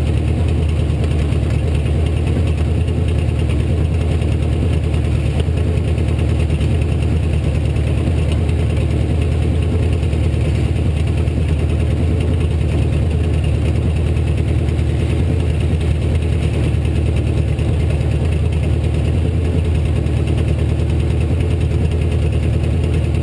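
Demolition derby car's V8 engine running steadily, heard from on board, with a deep even drone and no revving.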